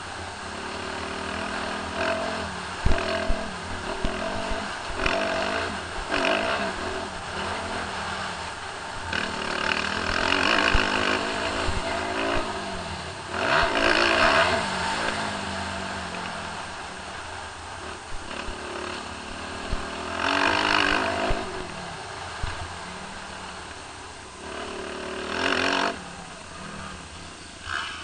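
Suzuki RM-Z250 motocross bike's four-stroke single-cylinder engine revving up and down over and over as the throttle is opened and closed, with several louder surges. Scattered low knocks sound under it.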